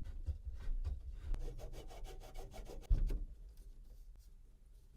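A nut being spun by hand onto a threaded plumbing fitting: a rapid run of small ticks and rubbing, with one knock about three seconds in, then dying away.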